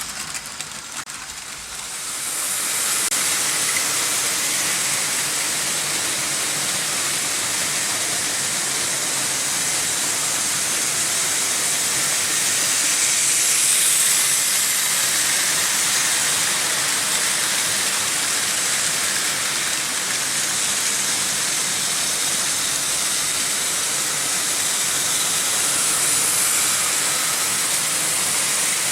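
Märklin H0 model trains running on stamped-metal M-track: a steady rushing rumble of metal wheels on the track, with a faint motor hum. It swells up about two seconds in and then holds steady.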